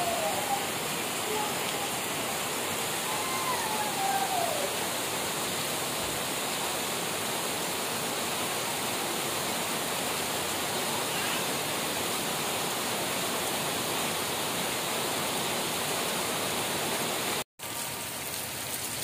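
Heavy tropical downpour: a steady, even hiss of rain falling. It cuts out for a moment near the end.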